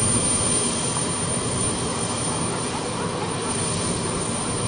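Jet aircraft engines running steadily: a constant, even noise with a few faint steady tones and no sudden changes.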